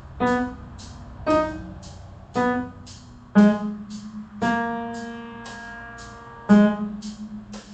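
Piano playing single notes about once a second, the fifth note held for about two seconds, with faint regular ticks between the notes.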